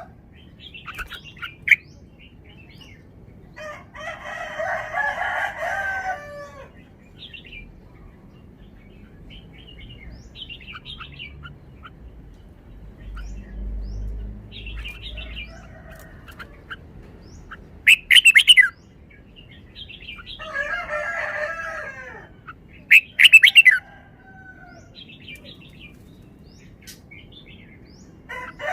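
Red-whiskered bulbul singing: short warbled phrases a few seconds apart, with scattered chirps between and two loud, sharp notes.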